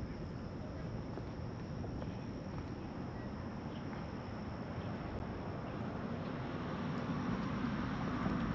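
Steady high-pitched insect trill, like crickets, over a low outdoor rumble that grows louder near the end.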